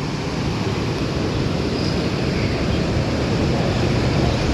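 Steady rushing noise of the high, fast-flowing flooded Chenab River, mixed with wind buffeting the microphone.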